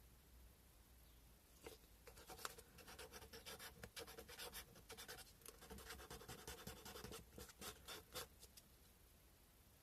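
Sandpaper rubbed in quick, short strokes over a cow bone fish hook carving: a faint, rapid scratching that starts about two seconds in and stops near the end.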